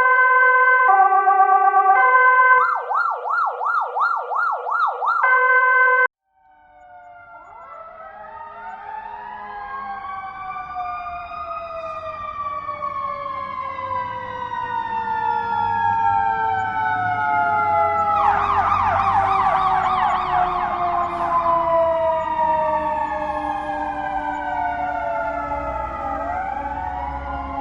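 Two police siren recordings back to back. First, a two-tone hi-lo siren alternates roughly once a second, changes to a fast warble, and cuts off suddenly. Then a wail siren fades in, with several overlapping slow rising-and-falling wails over a low vehicle rumble; a burst of fast yelp comes about two-thirds of the way through as it grows louder, and it then slowly fades.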